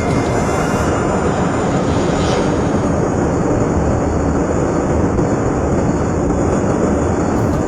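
Loud, steady roar of jet aircraft engines, an even noise without a clear pitch.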